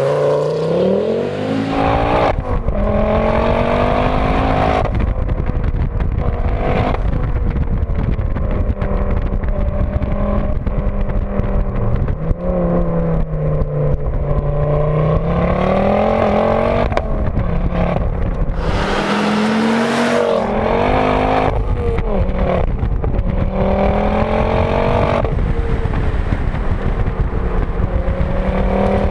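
Ford Focus RS Mk2's turbocharged five-cylinder engine, tuned to about 380 hp, pulling hard through the gears: the engine note climbs steadily, drops back at each shift, and climbs again. About two-thirds through, a brief rush of hiss cuts in as the throttle lifts, then the engine pulls again.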